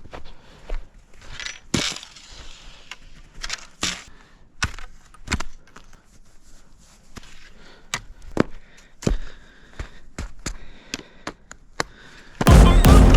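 A series of irregular sharp knocks and clacks, spaced roughly a second apart. Loud music comes in near the end.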